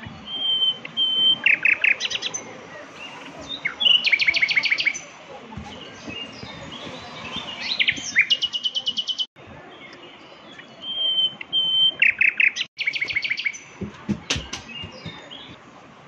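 Songbird singing: repeated phrases of short, rapid trills of about eight to ten notes a second, some of them opening with a brief steady whistle.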